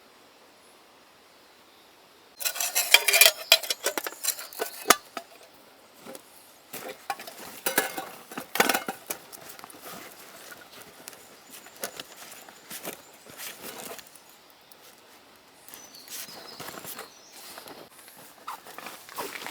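Camping gear being handled by hand: an uneven run of clinks, clatters and rustles, starting about two seconds in and loudest at first, then thinning to softer handling noises.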